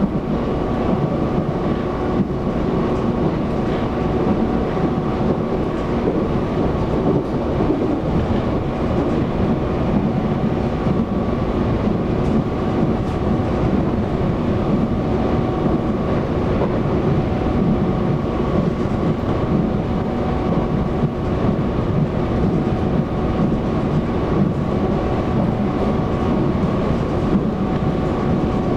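Taiwan Railways EMU700 electric multiple unit running at a steady speed, heard from inside the carriage: a constant rumble of wheels on track with a steady motor whine of several held tones.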